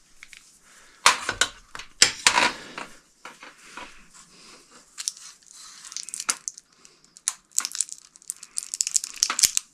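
Crinkling and rustling handling noises with sharper knocks about one and two seconds in, followed by a run of irregular crackles.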